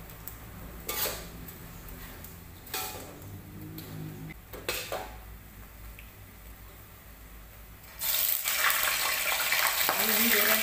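A few light clinks of a plate and utensils. About eight seconds in, loud sizzling starts suddenly as pieces of chicken go into hot oil in a frying pan, and it keeps going.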